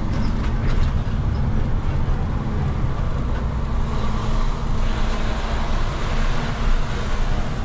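Vehicle on the move: a steady, loud engine and road rumble.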